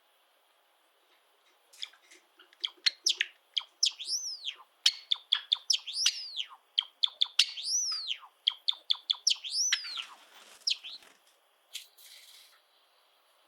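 A male Java sparrow singing: sharp clicking notes that build into a fast chatter with repeated arching whistled notes, the song ending about eleven seconds in. A brief rustle follows near the end.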